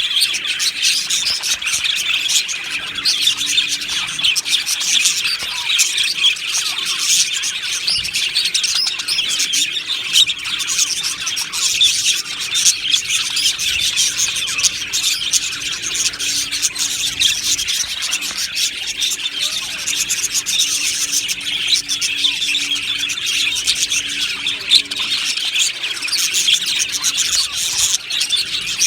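A colony of budgerigars chirping and chattering together, many overlapping calls without a break.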